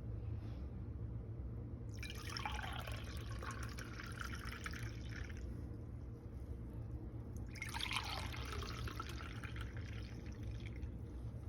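Liquid sounds in two faint bursts of about three and a half seconds each, a couple of seconds in and again past the middle, over a steady low hum.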